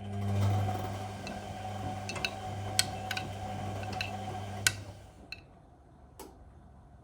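Whirlpool Indiana 1400 washing machine's motor turning the drum during the wash, a steady hum with a few sharp clicks from items knocking in the drum, winding down and stopping about five seconds in.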